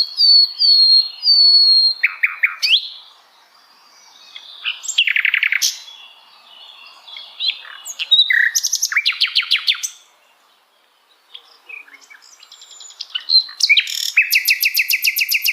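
Sikatan londo (a flycatcher) singing: runs of quick down-slurred whistles, then rapid trills and fast repeated note series, with a short pause about two thirds of the way through.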